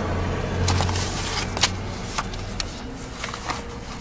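Low, steady hum of a car heard from inside the vehicle, with several sharp clicks and knocks spread through it; the hum fades out about two and a half seconds in.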